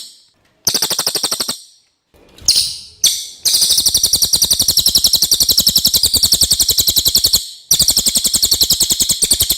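Cililin songbird singing rapid, buzzy high trills, several short bursts and one long trill of about four seconds near the middle.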